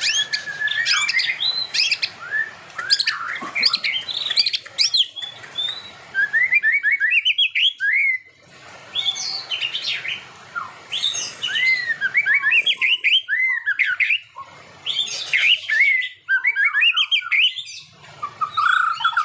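White-rumped shama (murai batu) singing: a rapid, varied run of whistles, sharp chirps and sweeping up-and-down notes, delivered in bursts separated by short pauses.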